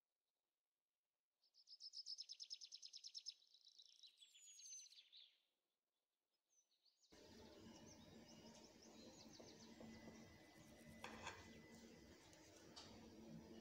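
Faint bird chirping: a quick, even trill of high chirps with a short sliding call near the end, then a pause. From about seven seconds in, a low steady room hum takes over, with a few faint chirps above it.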